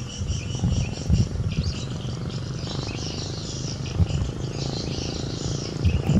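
Insects chirping in fast, repeated high pulses over a steady low engine rumble.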